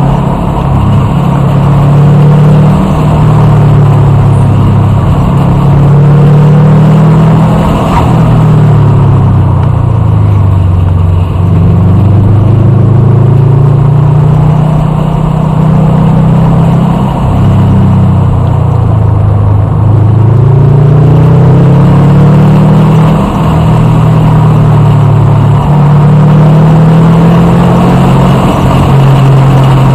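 A vehicle engine running loud and close. Its pitch rises and falls repeatedly as it accelerates, shifts and slows.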